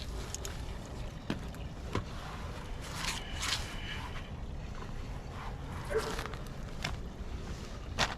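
Wind rumbling on the microphone, with a scatter of light clicks and short scrapes every second or so.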